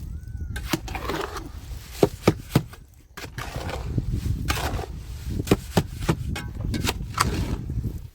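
Irregular sharp knocks and taps from block-building work, three in quick succession about two seconds in and a few more later, over a low rumble.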